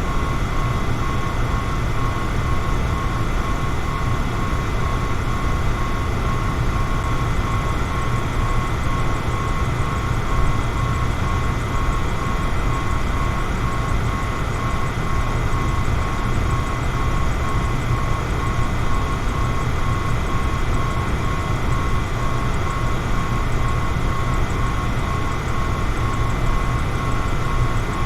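Electric fan running steadily: a constant rush of air, heaviest in the low range, with a thin steady whine above it.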